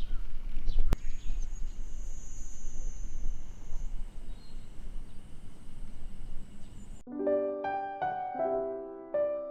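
Outdoor ambience with a low wind rumble, a few bird chirps at the start and a sharp click about a second in, plus a steady high-pitched whine. About seven seconds in the ambience cuts off and soft piano background music begins.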